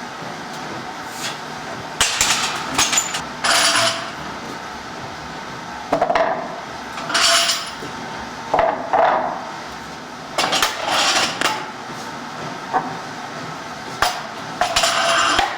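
Barbell and iron weight plates clanking and rattling, in several bursts of metal-on-metal knocks, some of them ringing briefly.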